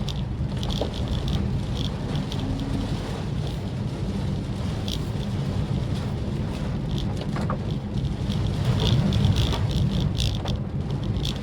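Maruti Suzuki Swift Dzire driving steadily on a wet road: a constant low rumble of engine and tyres, with a wash of road noise and scattered light ticks.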